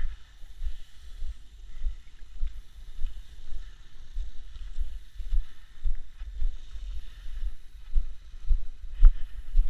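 Wind buffeting the microphone: an uneven, gusty low rumble that swells and fades about once or twice a second, with a single sharp knock about nine seconds in.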